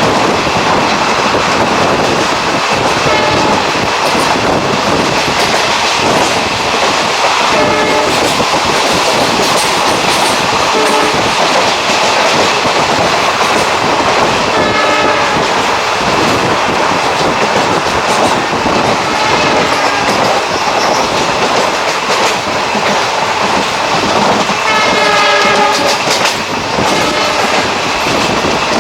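Passenger train running on the rails, heard loud and continuous with wheel and track noise. A train horn sounds a few times, clearest about three seconds in, around the middle and near the end.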